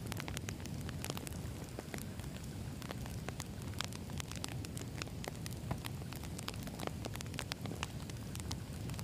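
Wood campfire burning: frequent sharp crackles and pops of the firewood over a steady low rumble of the flames.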